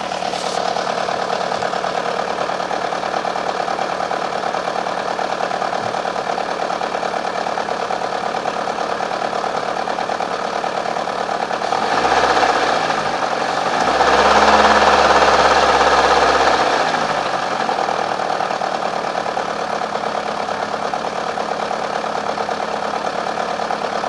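FIAT Stilo 1.6 engine idling with a noise from its broken timing-belt tensioner pulley, revved briefly about halfway through, its pitch rising and then falling. The timing belt has jumped one tooth and the engine runs unevenly.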